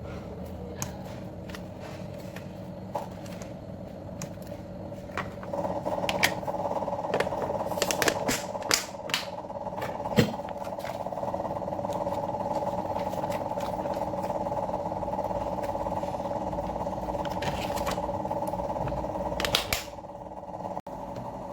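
Kitchen work sounds: scattered clicks and knocks of utensils and dishes, with a steady hum from a running appliance that starts a few seconds in and cuts off shortly before the end.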